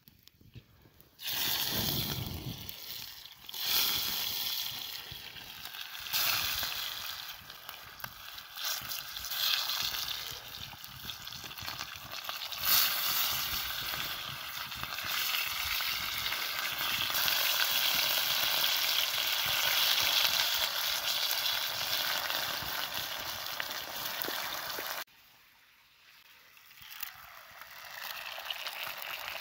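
Potato slices sizzling in hot oil in a frying pan: a steady, dense sizzle that starts suddenly about a second in and cuts off abruptly near the end, then comes back more faintly as an egg fries among the potatoes.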